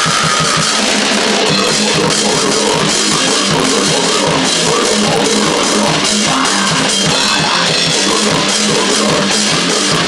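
Grindcore/noise band playing: fast drums under a dense, distorted wall of guitar noise, loud and unbroken.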